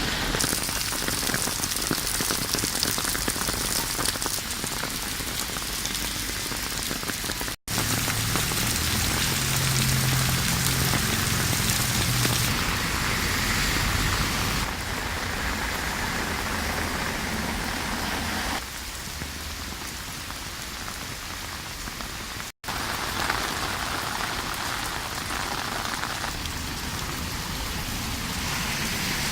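Steady rain falling and hissing on hard surfaces, in several segments joined by two abrupt cuts to silence. A low hum rises under the rain for a few seconds after the first cut.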